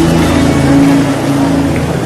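A congregation praying aloud all at once, a dense wash of many voices, over sustained keyboard chords.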